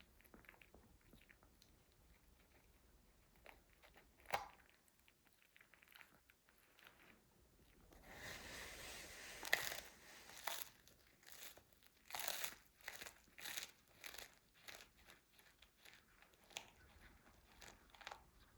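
A dog chewing and crunching a treat, with a spell of crinkling, rustling packaging about eight seconds in followed by a run of short crackly crunches.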